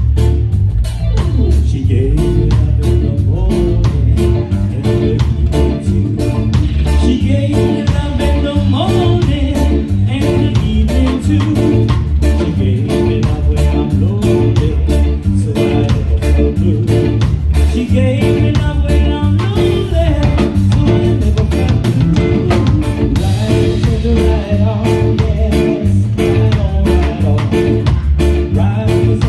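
Live reggae band playing, with a heavy bass line, guitar and drums keeping a steady beat.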